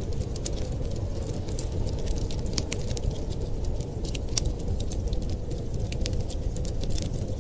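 Wood fire crackling, with many small sharp pops scattered irregularly, over a steady low rumble of blizzard wind.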